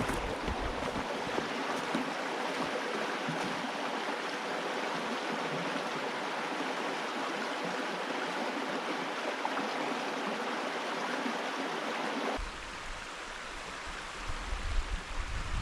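Stream or river water flowing in a steady rush. About twelve seconds in it cuts off suddenly, giving way to a quieter low rumble of wind on the microphone with a few bumps.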